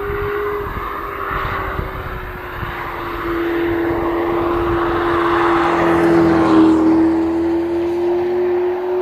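2019 Audi RS 4 Avant's twin-turbo V6 engine running at nearly steady revs, its note dipping slightly about six and a half seconds in, with tyre and wind noise underneath.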